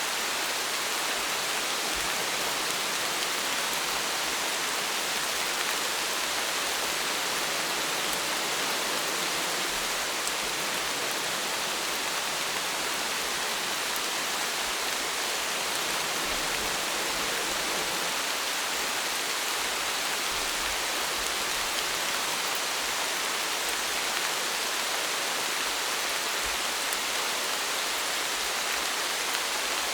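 Steady heavy rain, an even hiss with faint scattered drop ticks.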